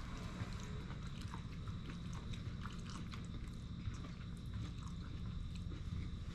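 People chewing mouthfuls of chicken and shrimp carbonara spaghetti: soft, irregular wet mouth clicks over a low steady hum.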